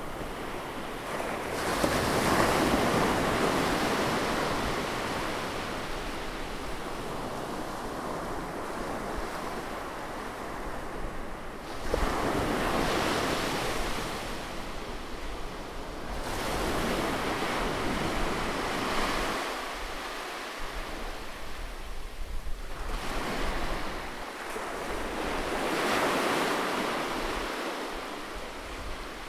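Ocean waves breaking on the shore: a rushing surf that swells as each wave breaks and then fades, several times in turn.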